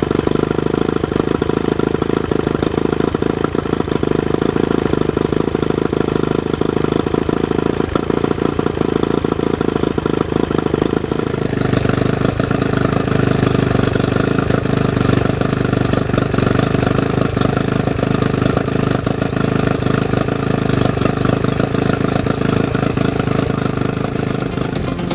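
1999 Johnson 25 hp two-stroke outboard motor running steadily, with its note changing about halfway through.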